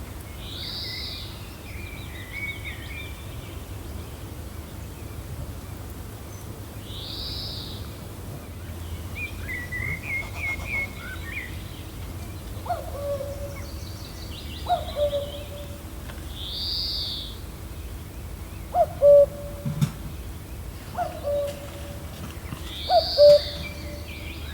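Several birds calling: short arched high calls repeating every few seconds, quick chirp series, and from about halfway a run of short, lower hooting notes. Gentle wind rumbles steadily underneath.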